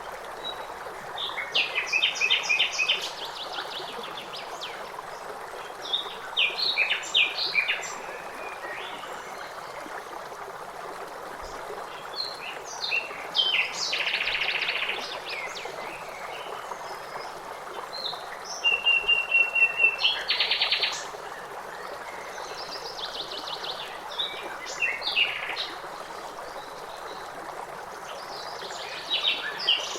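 Songbirds singing in short phrases of rapid chirps and trills every few seconds over the steady rush of a stream.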